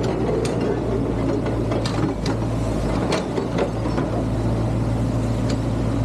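Excavator's diesel engine running steadily, with scattered metallic clanks and knocks from the machine working.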